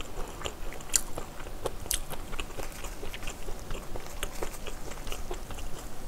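Close-miked chewing of braised kimchi and pork: irregular mouth clicks and smacks, with a couple of sharper clicks about one and two seconds in.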